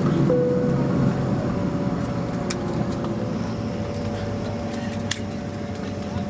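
Steady low rumble of a vehicle in motion heard from inside, easing off a little, with a steady hum and a few light clicks.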